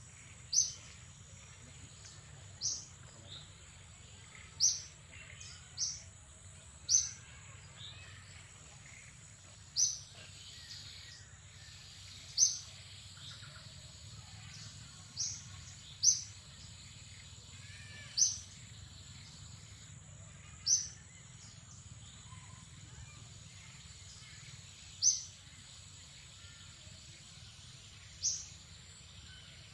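A bird giving short, high chirps, one about every two to three seconds, over a steady thin high-pitched whine and a low background hum.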